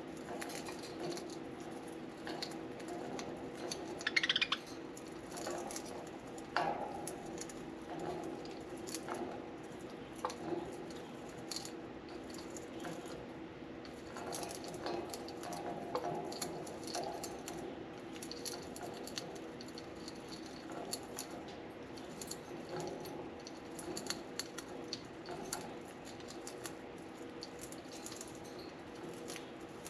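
Budgerigars chewing and shredding a soft-wood toy: a steady stream of small clicks, ticks and light rattles, over a faint steady hum.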